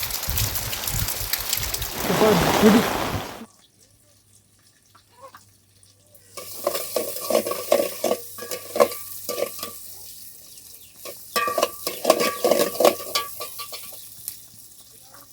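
Steady rain that cuts off suddenly about three seconds in. After a few quiet seconds comes a long run of rapid scraping and clinking.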